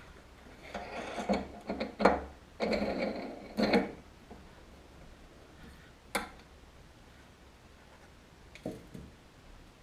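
Workshop handling noise: about three seconds of scraping and clattering with sharp knocks, then a few isolated clicks.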